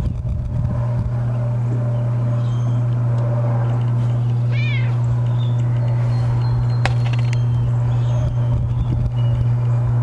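A cat meowing once, briefly, about halfway through, over a steady low hum. A sharp click follows a couple of seconds later.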